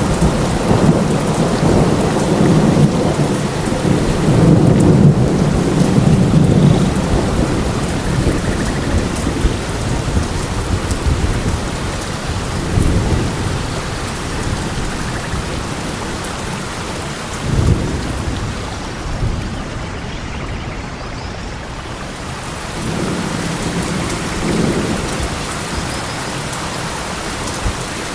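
Steady rain falling, with thunder rumbling over it. The rumble is long and heavy at first and fades after about seven seconds, then returns as a few shorter, fainter rumbles later on.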